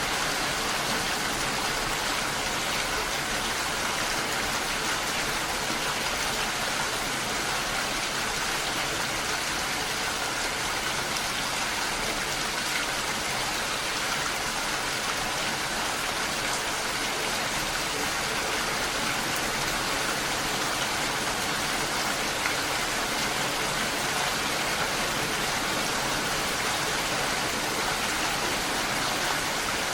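Steady, even rain falling, with no gusts or pauses.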